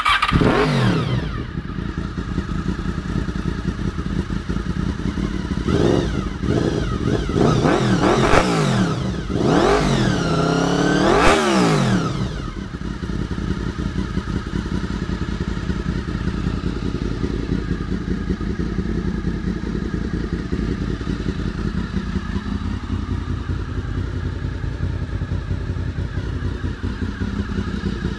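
Honda VFR800's V4 engine running through a Bzl aftermarket exhaust: it comes in abruptly, the throttle is blipped about five times in quick succession around the middle, then it settles to a steady idle.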